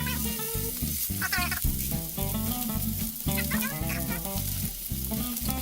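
Steak sizzling as it sears in hot olive oil in a pan on high heat, under background music.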